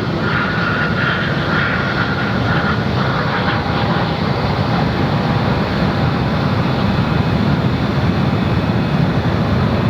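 Jet airliner engines running close by: a loud, steady rushing noise, with a thin whining tone over it during the first few seconds.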